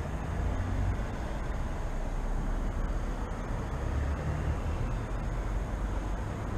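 Steady low rumble of city background noise from distant traffic, with no distinct events standing out.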